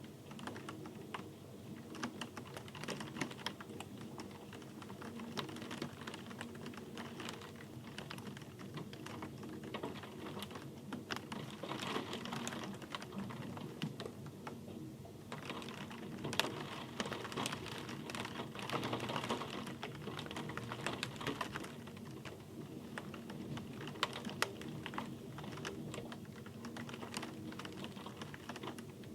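Rain falling, heard as a dense patter of individual drops ticking close by, swelling heavier twice in the middle.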